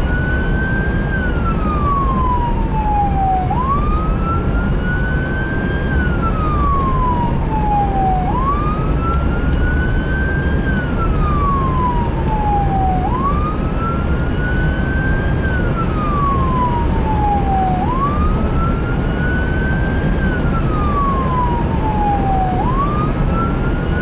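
Emergency vehicle siren on the wail setting, sweeping up quickly and falling slowly about every five seconds, over a steady low vehicle engine and road rumble.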